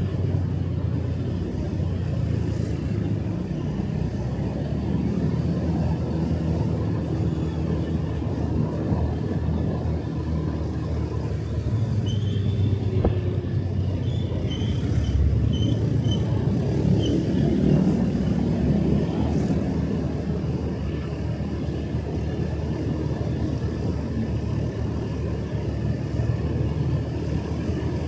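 Motorcycle engine running steadily under way, with wind and road rumble, its pitch shifting gently with the throttle.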